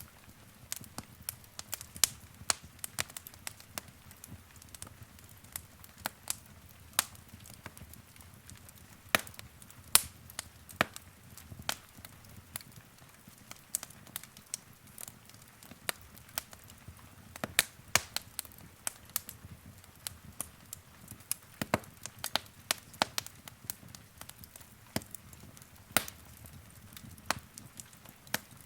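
Wood fire crackling: irregular sharp pops and snaps, several a second, over the soft low rumble of the flames.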